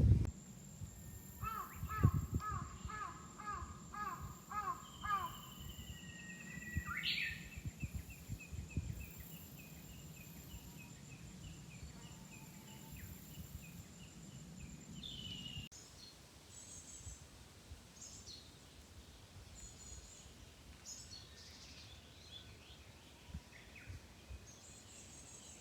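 Wild birds calling in a forest: a quick run of about seven repeated calls, then a long trilling series of notes. After a cut about two-thirds of the way in, only scattered high chirps remain.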